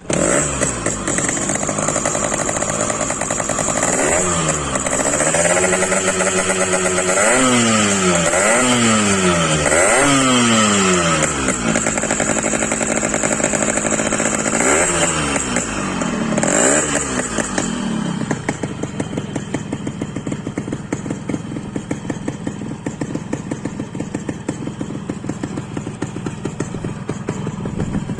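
Yamaha RX-King's single-cylinder two-stroke engine running, revved up and down in about seven short blips, then settling to a steady idle about 18 seconds in.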